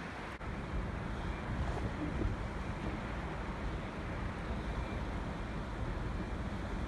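Steady low vehicle rumble heard from inside a car on a dashcam, with a brief dip under half a second in.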